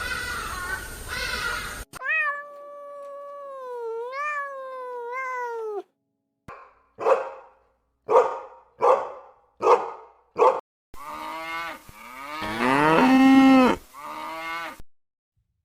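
A string of animal calls from several edited clips. A long wavering cry is followed by a run of six short calls, then a long, louder call, each clip broken off by a sudden cut.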